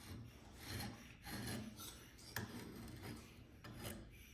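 Height-gauge scriber scratching a centre line along the ink-coated edge of a steel knife blade: several short, faint scraping strokes with a few light clicks.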